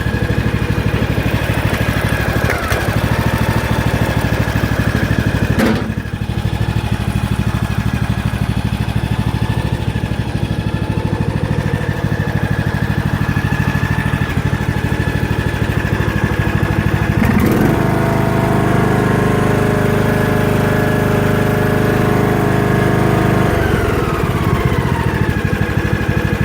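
Riding lawn tractor's engine running steadily, freshly reassembled after a rebuild. There is a short knock about six seconds in; about two-thirds of the way through a second steady hum joins for about six seconds, and near the end a tone falls away.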